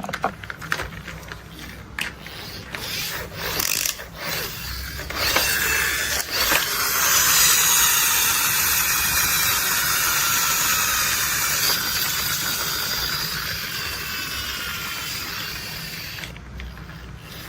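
Plastic toy construction vehicle being handled: scattered taps and clicks, then from about six seconds in a long mechanical whir of its wheels or gears that slowly fades away.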